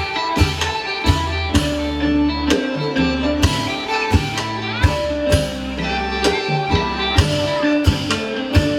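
Isan pong lang folk ensemble playing a lively tune: a plucked string melody over a steady bass, with regular drum strokes.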